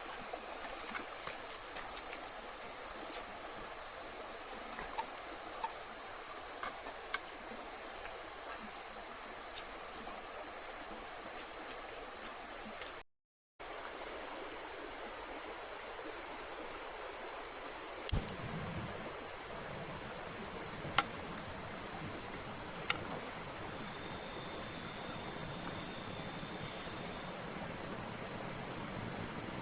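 A steady, high-pitched chorus of tropical forest insects over the even rush of a river, with a few faint clicks. The sound drops out briefly about halfway through.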